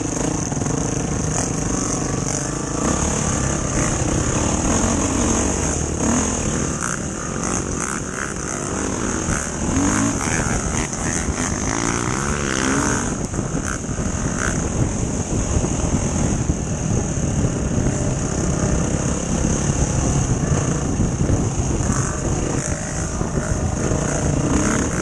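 Enduro dirt bike engine running steadily, with a few rises and falls in pitch, as water is driven out of its wet exhaust.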